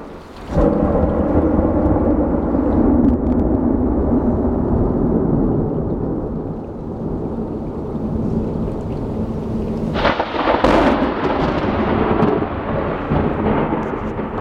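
A rainstorm: steady rain with a deep rumble of thunder. About ten seconds in, a sudden louder burst comes in and keeps rumbling.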